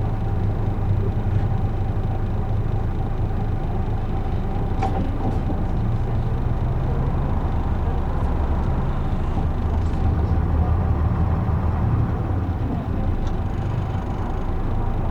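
Isuzu Erga city bus (PJ-LV234L1) under way, heard from inside the cabin: its straight-six diesel and road noise run steadily as a low rumble whose pitch shifts a few times with engine speed, and a few faint ticks come through.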